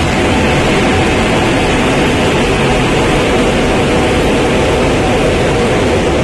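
Passenger train coaches running over a steel girder rail bridge: a loud, steady rumble with no let-up.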